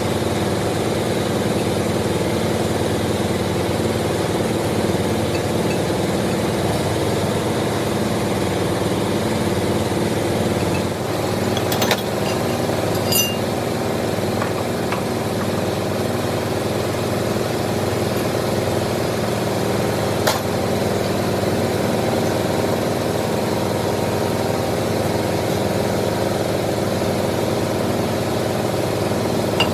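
Lathe running steadily with a low machine hum, broken by three brief sharp clicks about 12, 13 and 20 seconds in.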